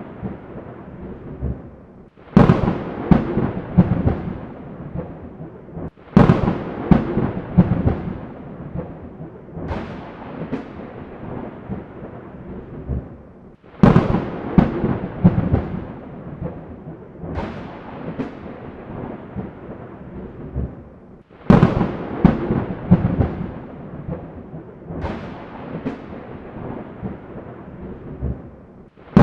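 Thunderstorm: seven sharp thunderclaps, one every three and a half to four seconds, each dying away in a crackling roll of thunder, over a steady hiss of rain.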